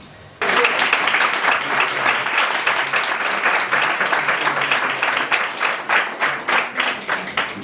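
Audience applauding, the clapping starting suddenly about half a second in.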